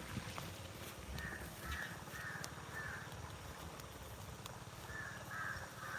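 Crow cawing: a run of four harsh caws about half a second apart, then three more near the end, over a steady low background rumble.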